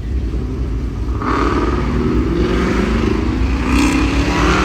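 Car engine accelerating, its pitch rising slowly and steadily from about a second in, over a constant low engine rumble.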